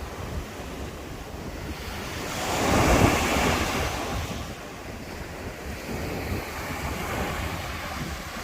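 Sea waves washing, one surge swelling to its loudest about three seconds in and then fading, with wind buffeting the microphone.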